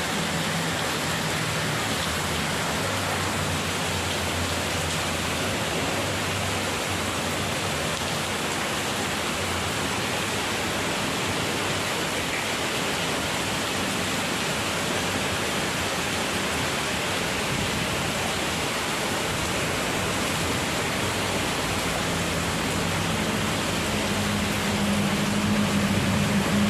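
Heavy rain pouring down steadily in a windstorm, a dense even hiss. Near the end a low hum grows slightly louder under the rain.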